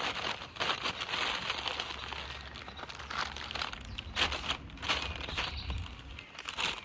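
Crinkling and rustling of flower wrapping and stems being handled while a bouquet of tulips and eucalyptus is put together, a run of short irregular crackles.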